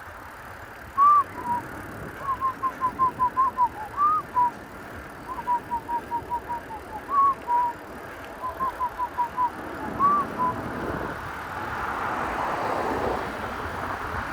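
A whistled phrase repeated about four times, each a quick run of short falling chirps and a single arching note, over faint road noise that grows louder near the end.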